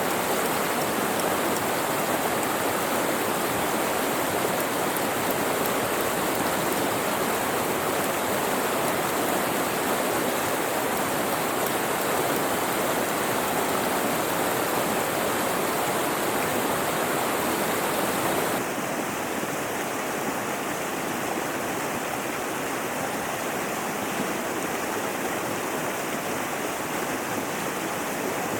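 Mountain river rushing steadily. About two-thirds of the way through the sound abruptly becomes a little quieter and less hissy.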